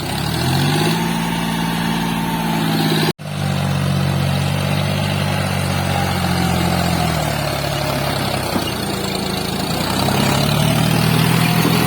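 John Deere tractor's diesel engine revving up and holding high revs. It eases off in the middle and picks up again near the end, typical of a tractor working under load in mud. The sound cuts out very briefly about three seconds in.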